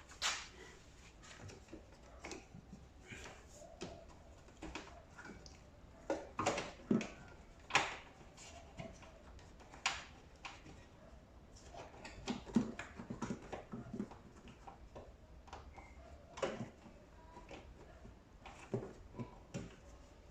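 Irregular clicks, knocks and rustles of plastic hoses and fittings being handled and pushed onto their connections inside a tumble dryer during assembly, with a few louder knocks scattered through.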